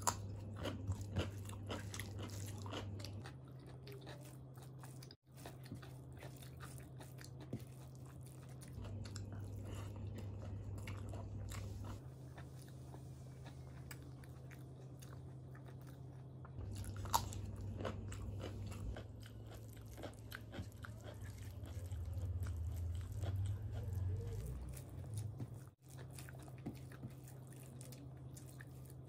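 Close-miked chewing and crunching of rice and raw cucumber eaten by hand, with many short crackly bites over a steady low hum. The sound drops out briefly twice, about five seconds in and near the end.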